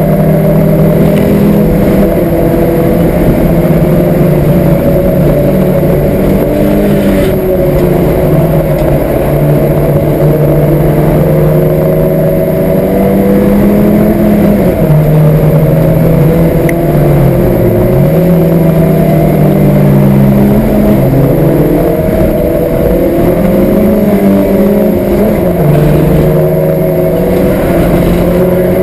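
Citroen Saxo race car's four-cylinder petrol engine, with an aftermarket air filter and four-branch exhaust manifold, heard loud from inside the cabin at racing speed, its pitch climbing and dropping as the driver accelerates, shifts gear and brakes for corners.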